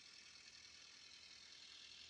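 1936 Case L tractor's four-cylinder engine running steadily, heard faintly under an even hiss.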